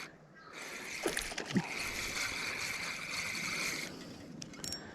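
Fishing reel being cranked steadily to retrieve line with a hooked, fighting fish on, a whirring hiss that stops near the end, with a couple of short splashes about a second in.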